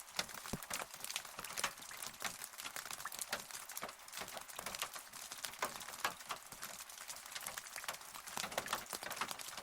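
Rain falling steadily, with many separate drops ticking and pattering close by at an uneven pace over a soft hiss.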